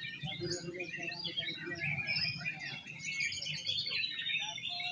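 Several oriental magpie-robins (kacer) singing at once: dense, overlapping whistles and chirps.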